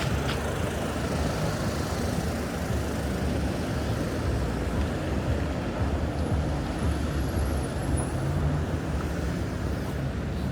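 Steady road traffic: the low hum of car and vehicle engines passing along a wide street.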